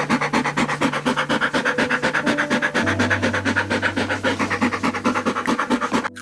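Rapid, even scratching or rasping, about nine strokes a second, over steady background music notes.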